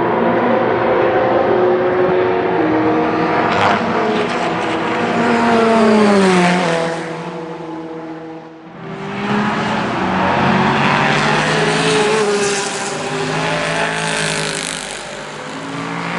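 Racing cars at speed on a circuit, passing one after another. The first car's engine note peaks and then falls in pitch as it goes by, and after a short lull about halfway through, more cars come past.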